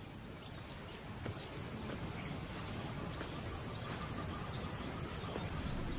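Savanna field ambience: a steady high-pitched insect drone over a low rustling rumble that slowly grows louder.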